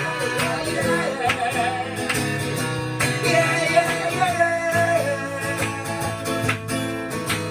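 Live music from a guitar-led song, with a steady beat and a wavering melody line above the guitar.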